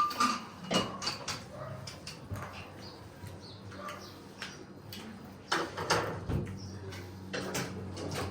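Scattered sharp clicks and knocks. A few come in the first second, and a louder group comes about six seconds in. A faint low steady hum runs underneath.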